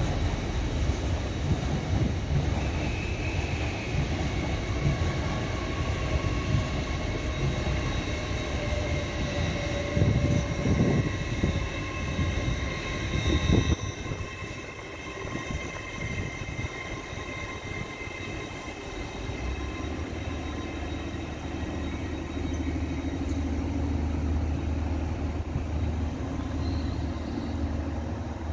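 LNER Intercity 225 train of Mark 4 coaches rolling slowly through the station: a dense rumble of wheels on rails with thin steady squealing tones above it. Two louder thumps come about ten and thirteen seconds in, then the sound settles to a quieter steady low hum.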